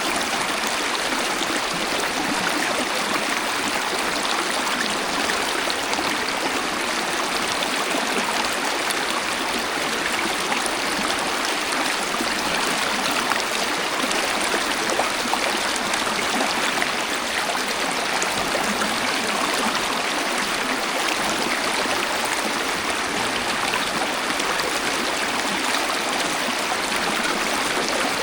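Waterfall: a steady, unbroken rush of falling and splashing water, with hardly any deep rumble.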